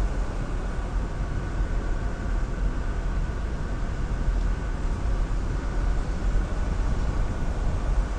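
Jeep Wrangler driving slowly on a trail, its engine and drivetrain giving a steady low rumble.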